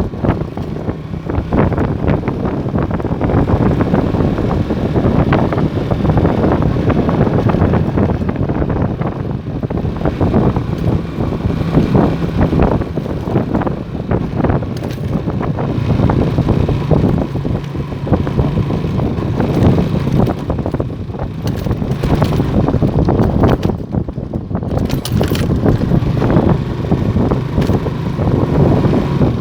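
Motorstar Star X 125 motorcycle running at a steady cruise, its engine a faint steady hum under heavy wind buffeting on the microphone.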